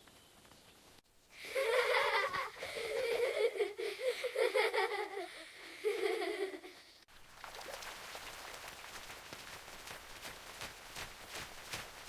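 Children laughing and giggling together, high-pitched, starting about a second in and stopping suddenly about seven seconds in. After that, a steady hiss with faint irregular taps.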